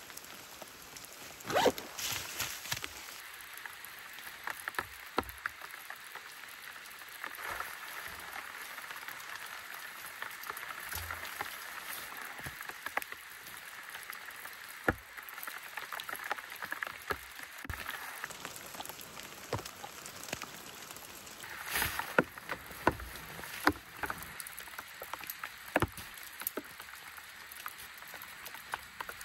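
Light rain pattering steadily, with many scattered sharp ticks and knocks of drops and handling through it.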